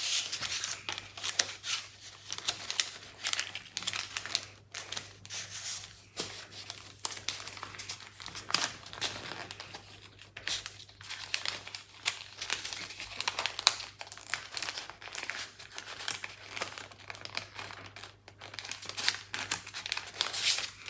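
A sheet of paper being folded and creased by hand, a run of irregular crinkles and rustles as the folds are pressed flat.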